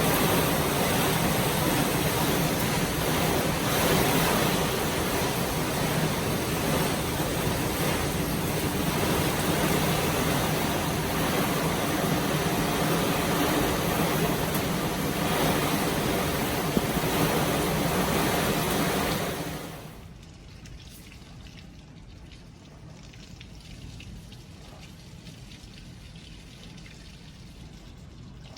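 Heavy tropical-storm rain and wind, a loud steady rushing hiss. About two-thirds of the way through it drops off abruptly to a much quieter, steady hiss.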